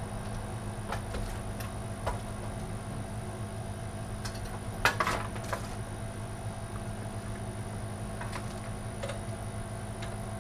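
Scattered light clicks and taps from handling computer parts and cables inside a PC case, the loudest about five seconds in, over a steady low hum.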